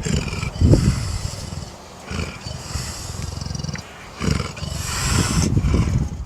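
A big cat roaring and growling, with several loud roars and rougher growls in between, the loudest near the start. The sound breaks off abruptly at the end.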